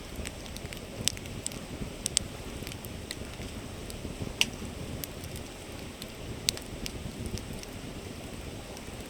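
Campfire crackling, with sharp pops scattered irregularly over the steady rush of a flowing river; the loudest pops come about four and six and a half seconds in.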